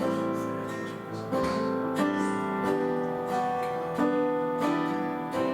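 Acoustic guitar strumming sustained chords, with a new strum every second or so, as the instrumental close of a worship song.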